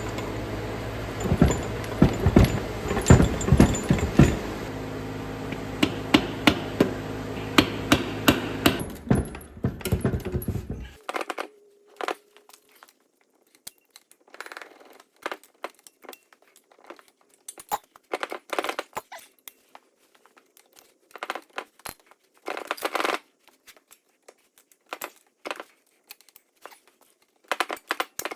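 Hand tools and loose metal parts clinking, knocking and scraping at irregular intervals while bolts on an engine are worked loose. A steady hum with a held tone runs underneath and cuts off suddenly about a third of the way in.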